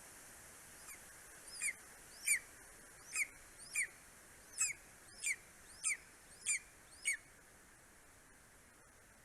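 Greater spotted eagle calling: a series of about ten short, sharp, downward-slurred calls, roughly one every two-thirds of a second, the first one faint, stopping about seven seconds in.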